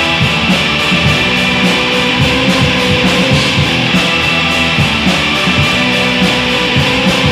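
Black metal recording: dense, distorted electric guitars over fast, steady drumming, loud and unbroken.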